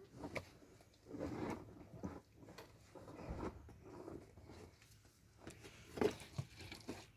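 Faint, irregular crunching and rustling with a few light knocks, in a small echoing space.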